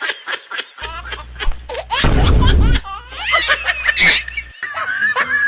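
Laughter in rapid short bursts, with a loud low-pitched swell about two seconds in.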